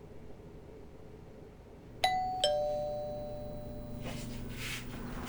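Two-note doorbell chime about two seconds in, a higher ding then a lower dong, each ringing out over a couple of seconds, followed by faint scuffing sounds.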